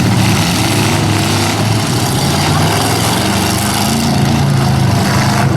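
Engines of several straight-stock pickup trucks running and revving together, their pitch rising and falling.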